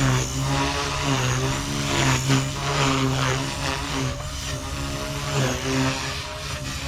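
Blade Fusion 180 Smart electric micro RC helicopter in flight: its rotors and brushless motor give a steady whine. The pitch wavers slightly as the helicopter manoeuvres.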